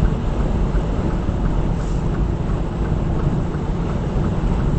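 Steady low rumble of a semi truck's diesel engine and road noise heard inside the cab while driving.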